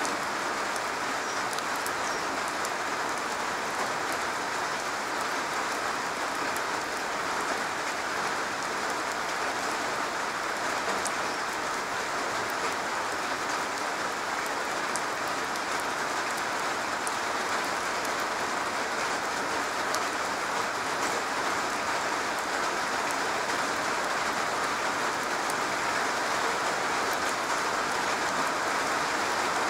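Steady rain falling on a garage roof: an even hiss of many drops with scattered sharper ticks, growing slightly louder near the end.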